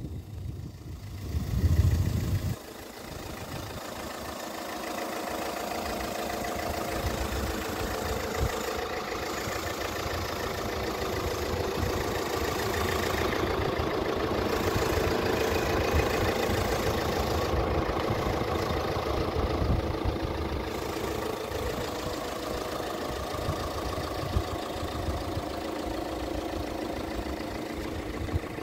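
A car engine idling steadily, after a low rumble in the first couple of seconds.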